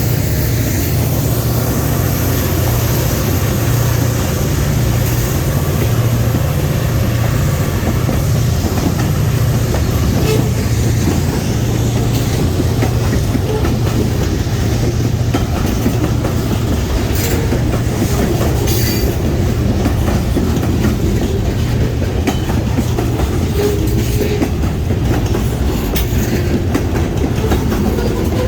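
Freight train on the DeQueen and Eastern Railroad rolling past, a steady low rumble with a few sharp clicks from the wheels.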